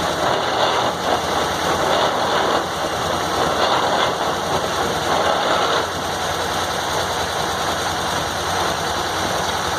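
Engine-driven circular sawmill running steadily, its big circular blade cutting through a log with a harsh rasping noise that eases off about six seconds in as the cut ends.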